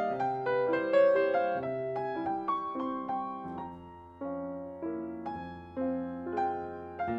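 Solo piano playing a slow, gentle instrumental Christmas piece in struck chords, with a low bass note held through the second half.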